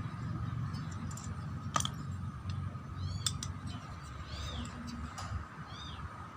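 Several short, high-pitched animal calls that rise and fall, heard over a low steady rumble, with a single sharp click about two seconds in.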